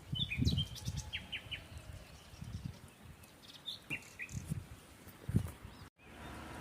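Birds chirping in short, high calls, over scattered low thuds. The sound drops out briefly near the end, and a steady hum takes over.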